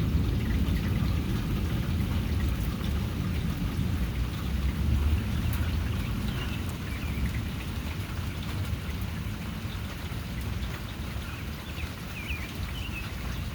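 Steady rain falling, under a low rumble of thunder that slowly dies away.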